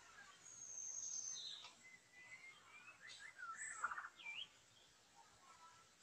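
Songbird whistles and chirps: a long high whistle, a falling sweep, then a quick run of varied notes about three to four seconds in.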